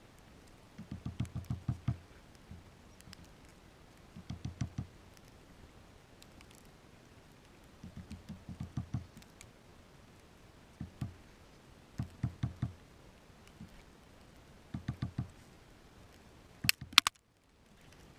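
A bird pecking at a feeder: quick runs of dull taps, about six runs a couple of seconds apart, with a sharper, louder clicking near the end.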